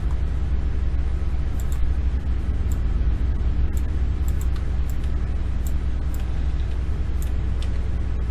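A steady low background rumble, with scattered short clicks of a computer mouse.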